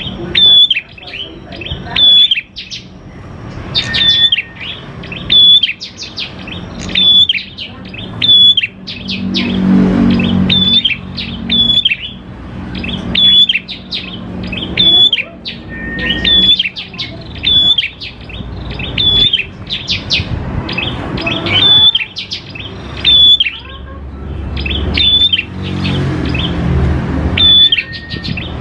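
Prenjak klawu singing: a fast series of sharp, repeated chirps, about one to two a second, with the odd longer whistled note between them. A low rumble runs under the song for a couple of seconds around the middle and again near the end.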